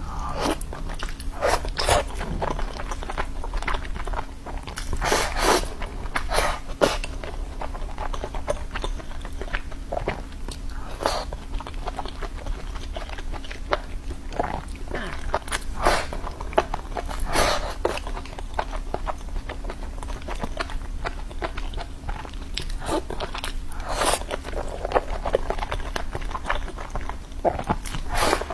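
A person eating: crunchy bites and chewing at an irregular pace, over a steady low hum.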